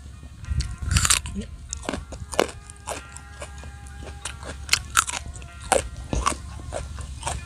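Close-up biting and chewing of raw young jengkol (dogfruit), a run of crisp crunches with the loudest bite about a second in.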